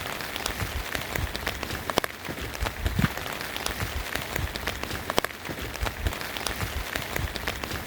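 Rain falling steadily: a dense patter of many small drop ticks.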